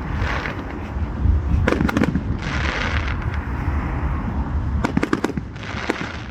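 Fireworks bursting: sharp bangs about two seconds in and again about five seconds in, with spells of hissing crackle after them, over a steady low rumble.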